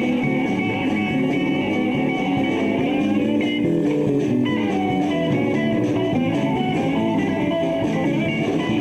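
Live rock band playing an instrumental stretch with electric guitar over bass and drums, in a bluesy vein, loud and steady.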